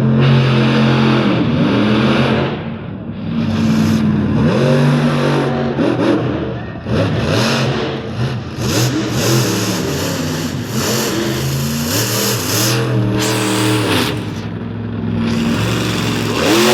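Monster truck engine revving hard, its pitch surging up and falling back again and again.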